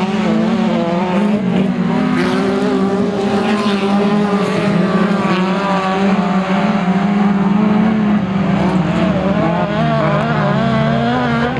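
Autocross race car engines running hard with a loud, continuous note whose pitch wavers and steps up and down as they rev and change gear.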